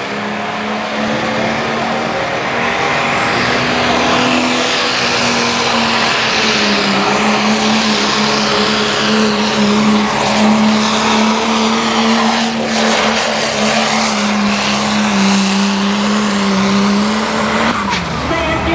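Limited Pro diesel four-wheel-drive pulling truck at full throttle hauling the weight sled: a steady, loud engine drone held for most of the run with tyre and track noise over it. Near the end the throttle comes off and the engine pitch drops sharply.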